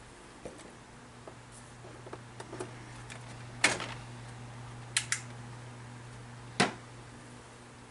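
A series of sharp clicks and knocks, irregular and scattered, the loudest about midway, two close together a second later and one more near the end, over a steady low hum that does not change.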